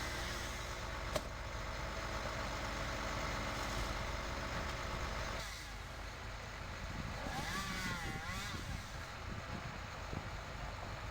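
A heavy engine running steadily with a low rumble. There is a sharp click about a second in and a short wavering whine around eight seconds.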